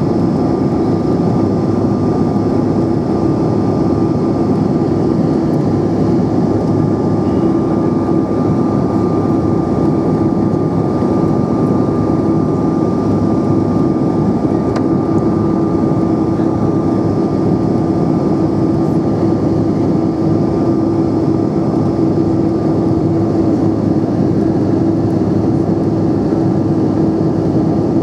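Steady jet cabin noise inside a Bombardier CRJ700 in flight: the even rush of its rear-mounted turbofans and airflow with a constant low hum and a fainter steady whine.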